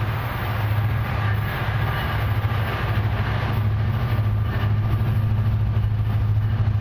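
Approaching diesel freight train: a steady low diesel engine drone with a rumble that slowly builds as the locomotives draw nearer.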